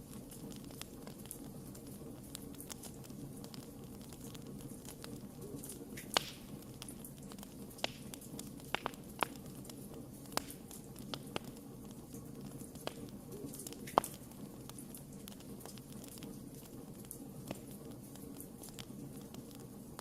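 Wood fire burning: a steady low rush of flames with scattered sharp pops and crackles, the loudest about six seconds in and again about fourteen seconds in.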